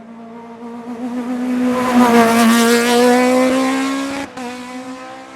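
Race car accelerating past on a hillclimb, its engine climbing slowly in pitch as it grows loud and then fading as it moves away. The engine sound cuts out briefly about four seconds in, then carries on.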